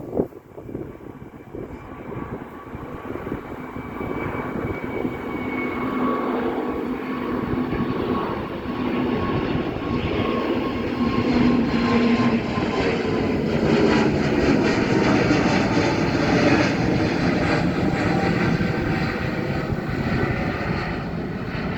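ITA Airways jet airliner's engines heard as the plane passes close by. The jet roar grows steadily louder over the first dozen seconds and then holds loud, with an engine whine whose pitch sinks slowly as the plane goes by.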